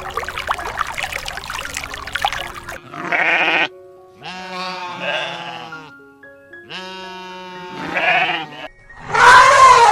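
A bleating farm animal, sheep or goat kind, calling about five times in separate pitched bleats, the last one the loudest, over background music. Before the bleats a noisy hiss cuts off about three seconds in.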